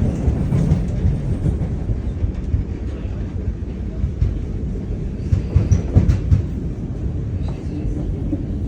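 Suburban electric train running, heard from inside the carriage: a steady low rumble, with a cluster of clunks about five to six seconds in.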